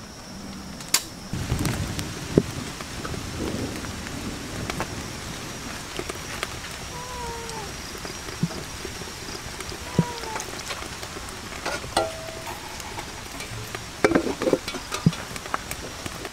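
Whole chicken and banana flower sizzling in a wok over a wood fire: a steady hiss with scattered crackles and pops. Near the end comes a short clatter of metal as a lid is set on the wok.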